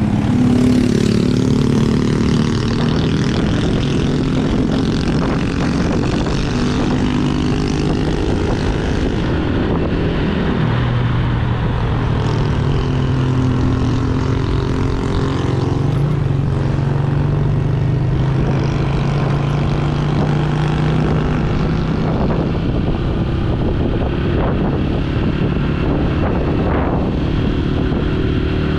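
Yamaha YBR125G's single-cylinder four-stroke engine running steadily under way, its note dropping about ten seconds in and then slowly climbing again as speed changes.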